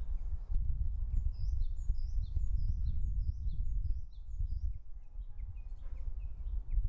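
Low, steady rumbling background noise, with a songbird calling a quick series of high, falling chirps, about three a second, from about a second in until past the middle, and a few lower chirps here and there.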